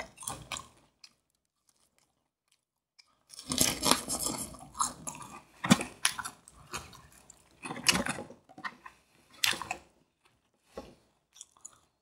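Crispy Korean fried chicken being bitten and chewed close to the microphone: a short crunchy bite at the start, then after a pause several seconds of irregular crackling crunches that thin out near the end.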